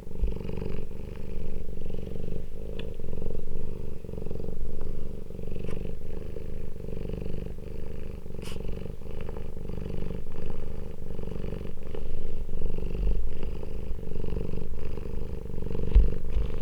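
Domestic cat purring close to the microphone, a steady low rumble that swells and eases with each breath.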